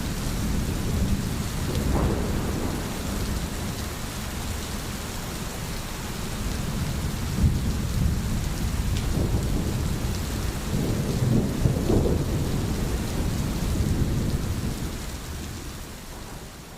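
Steady heavy rain with low rolling thunder, swelling a couple of times. The sound fades out near the end.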